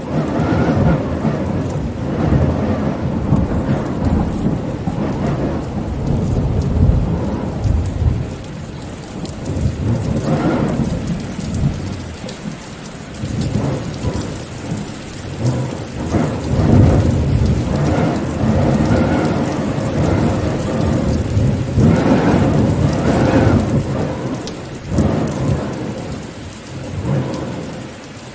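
Steady rain falling, under deep rumbles of thunder that swell and fade several times.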